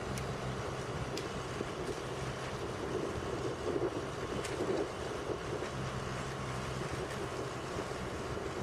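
A heavy engine running steadily, with a low hum and a few light clicks or knocks over it.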